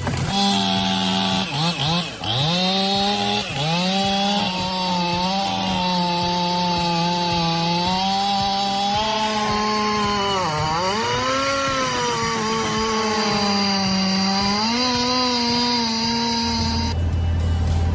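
Chainsaw running at high revs with a steady pitch that sags sharply about two seconds in and again about ten seconds in, each time climbing back up.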